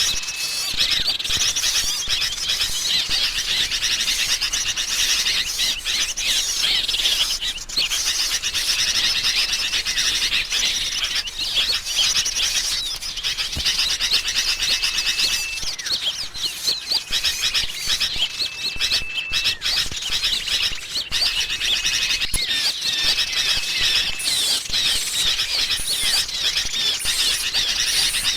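Bird-lure recording of sooty-headed bulbuls calling excitedly, mixed with other small songbirds: a dense, unbroken chatter of chirps and twitters, with a thin held whistle note coming back again and again.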